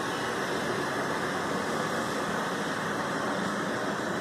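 Hyundai i10's engine idling steadily, a constant even hum, while it runs through an HHO (hydrogen-oxygen) engine carbon clean.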